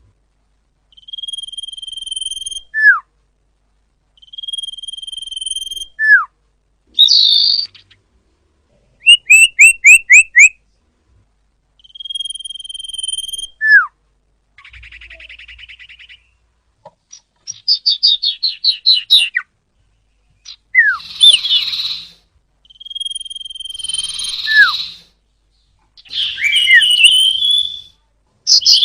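Common iora (cipoh) singing: long steady whistles, each ending in a short downward-slurred note, repeated several times. Between them come a quick run of five sharp chirps, a buzzy rattle and a fast trill.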